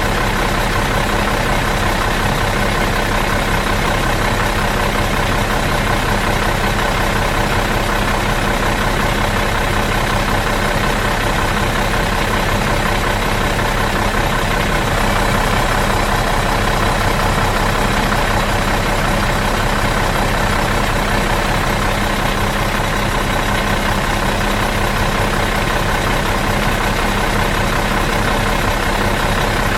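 Bus engine idling in neutral, a steady, even diesel-type drone that does not change.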